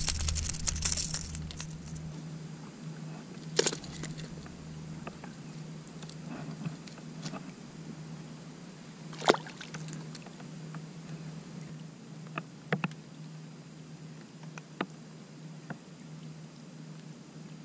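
Sporadic sharp knocks and taps on a fishing kayak, about half a dozen spread out, over a steady low hum and faint water sounds.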